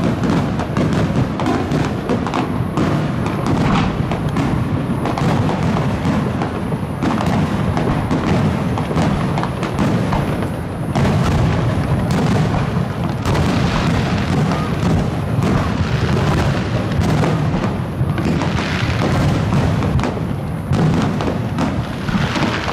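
Fireworks grand finale: aerial shells bursting in a dense, continuous barrage of overlapping booms and thuds, with no pause between them.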